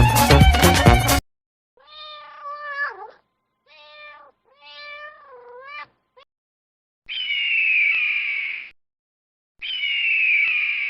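A cat meowing three times in short, bending calls. These are followed by two longer, higher and harsher calls that fall in pitch, each lasting about a second and a half.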